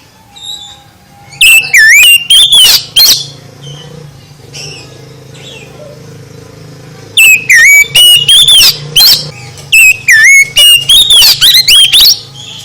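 Oriental magpie-robin (kacer) singing very loud, fast, sweeping whistled phrases in two bursts, about a second in and again from about seven seconds.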